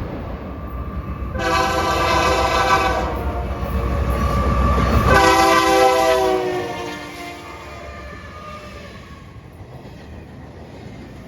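A locomotive's air horn sounds two long blasts over the low rumble of a passing train, and the rumble fades away after the second blast.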